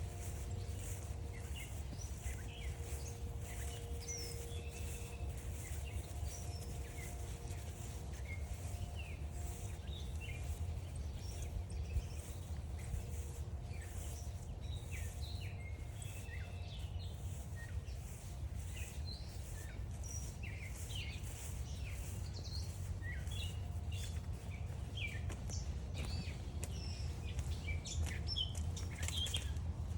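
A chorus of songbirds chirping and singing throughout, many short calls overlapping, over a steady low rumble of outdoor noise, with footsteps along a trail.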